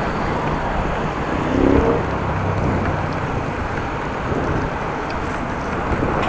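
Steady wind rushing over the microphone and road noise while riding a bicycle, with one short pitched sound about a second and a half in.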